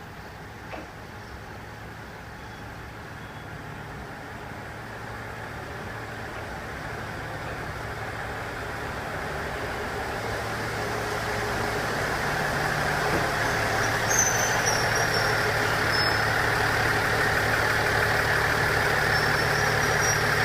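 Diesel railcar engine idling steadily, its hum growing gradually louder.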